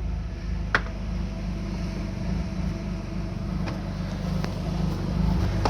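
Alfa Romeo 156's 24-valve Busso V6 idling steadily just after a cold start, with a few short clicks over it. It runs kind of rough, which the owner puts down to an air intake hose that is not properly connected.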